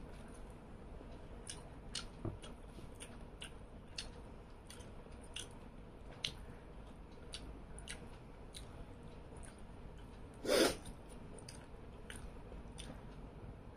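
A person chewing a mouthful of tengra catfish curry with rice, crunching the small fish bones: soft, irregular crunches and mouth clicks, about one or two a second. One louder, longer sound comes about ten and a half seconds in.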